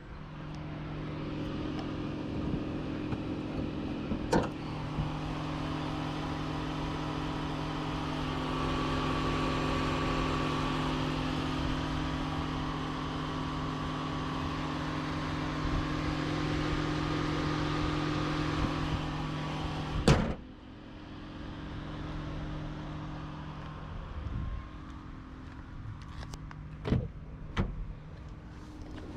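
Steady mechanical hum of a 2026 Toyota RAV4 hybrid, heard from inside the car, with a click about 4 s in. About 20 s in, a sharp louder click comes and the hum drops away, leaving quieter cabin sound with a few light clicks.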